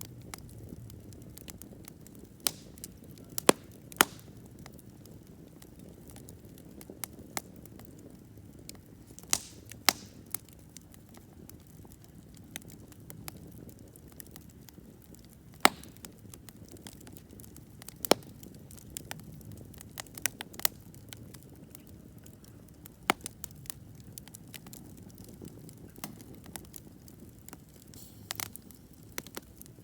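Wood campfire burning with a low steady rumble and irregular sharp crackles and pops, a few standing out loudly.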